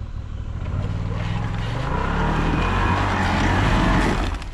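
Off-road machine's engine revving up under load, its pitch climbing over the first two seconds and then holding, as it crawls forward over an obstacle.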